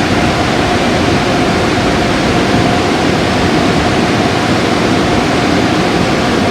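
Car wash equipment running with a steady, loud rushing noise and a faint steady hum underneath.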